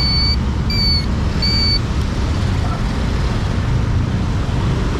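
Steady road traffic rumble, with a vehicle's reversing alarm beeping three times in the first two seconds and then stopping.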